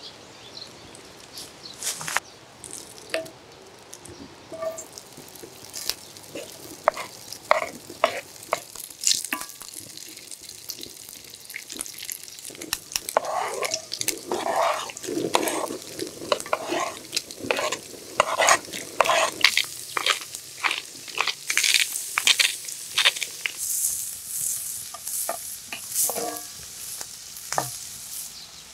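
Diced Spam and vegetables frying in oil in a cast-iron skillet: sizzling, with many short scrapes and taps of a spatula stirring them against the pan.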